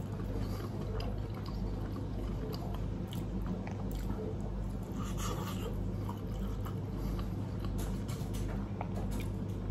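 A man biting into a fish cutlet and chewing it: quiet, wet mouth sounds with small scattered clicks.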